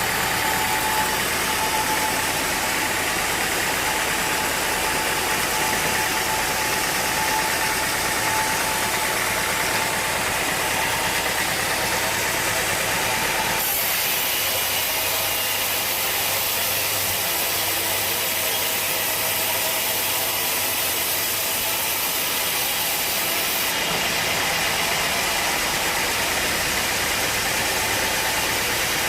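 Sawmill machinery running steadily, a continuous engine noise. Its tone changes abruptly about 14 seconds in and changes back about 24 seconds in.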